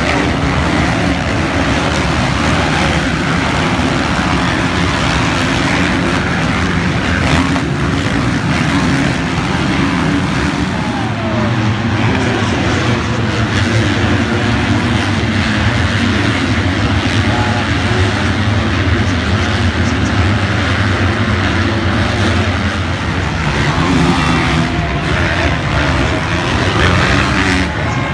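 Motocross bike engines running, a loud steady drone.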